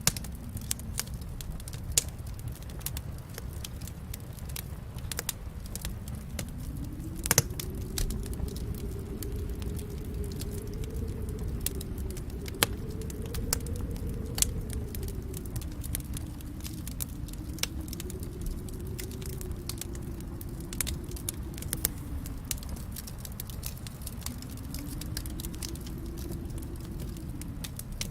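Wood fire burning in a fireplace: a steady low rush of flames that swells and eases, with irregular crackles and sharp pops throughout. The loudest pop comes about 7 seconds in.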